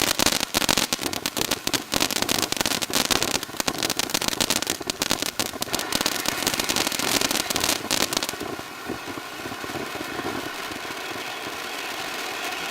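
Baseball-bat-shaped fountain firework burning: dense crackling for about the first eight seconds, then a steadier hissing spray of sparks.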